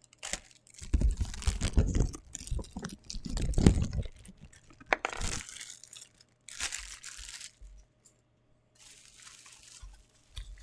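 Figure packaging being handled and torn open: crinkling, tearing plastic and cardboard, with heavy bumps and scrapes in the first few seconds, then separate clicks and lighter rustles.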